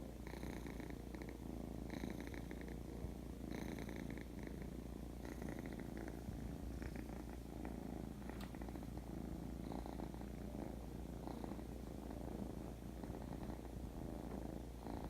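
Domestic cat purring steadily, the buzz swelling in a breath-by-breath rhythm about every one and a half to two seconds.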